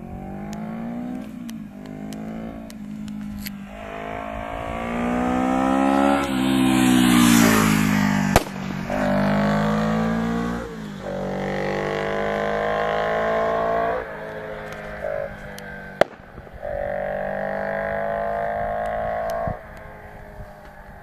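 Yamaha XS 400 parallel-twin engine pulling through the gears on a test ride, its pitch climbing and dropping back at each shift, with a full, deep exhaust note. Later it holds a steady speed for a few seconds, then backs off near the end. Two sharp clicks cut through.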